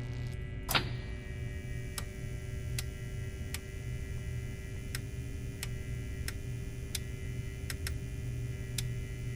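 Steady electrical mains hum, with irregular sharp clicks about once a second and a louder click near the start.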